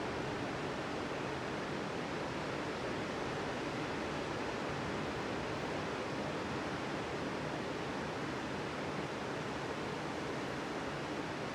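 Ocean surf on a beach, a steady even wash of breaking waves with no single wave standing out.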